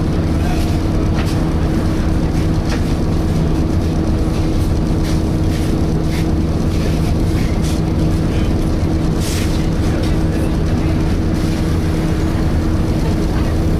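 Volvo B7TL double-decker bus heard from inside: steady engine drone with a constant hoover-like hum from the cooling fan, and a few light rattles.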